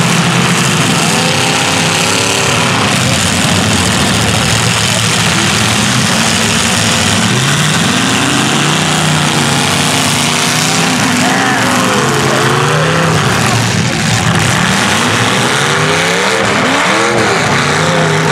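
Several demolition derby cars' engines revving up and down as the cars push and ram one another, their pitch rising and falling again and again over a dense, steady din.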